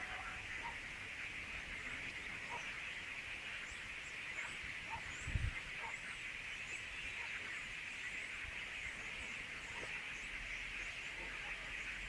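A large flock of common starlings chattering in a steady, dense din, with short high chirps rising out of it. A brief low bump about five seconds in.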